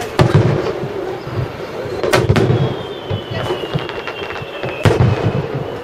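Aerial firework shells bursting in a series of sharp bangs: one right at the start, two close together about two seconds in, and another near five seconds, over a continuous low rumble of further bursts. A faint high whistle slides slowly downward in pitch in the second half.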